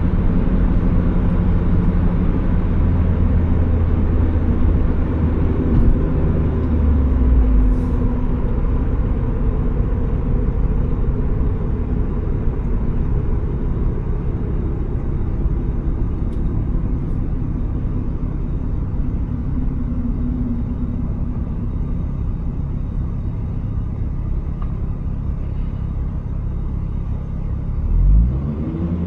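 Turbocharged Mazda Miata's four-cylinder engine and road rumble while driving. The engine note is strong and steady for the first several seconds, then eases off into a steadier low rumble, and near the end the engine pitch briefly shifts with a short rise in loudness.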